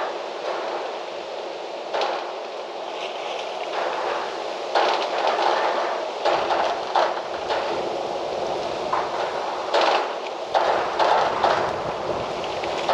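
Gusty wind blowing through trees and foliage, swelling and easing, with scattered short rattles and knocks.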